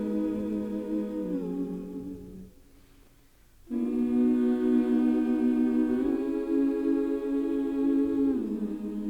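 Slow, calm background music of long held notes that step between a few pitches. It fades out a little past two seconds in, then comes back in suddenly about a second later.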